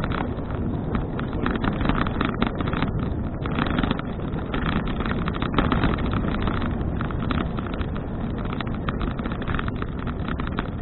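Wind buffeting the microphone of a handlebar- or body-mounted action camera on a moving bicycle: a steady, dense rushing rumble with rapid flutter.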